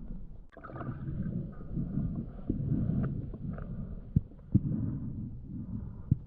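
Muffled, rumbling water noise as heard by an action camera underwater, with a few sharp knocks about four seconds in and again near the end.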